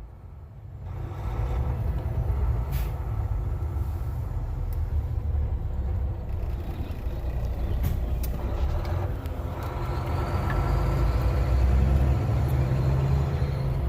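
Big-rig semi truck's engine and road noise heard from inside the cab while driving: a steady low rumble that comes up about a second in and holds, with a few light clicks.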